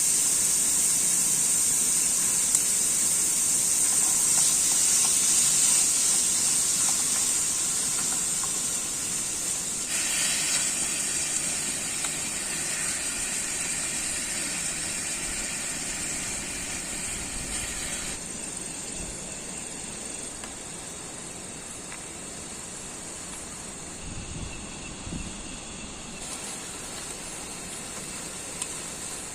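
Heavy rain making a steady, dense hiss that slowly eases, with its texture shifting about a third and about two thirds of the way through.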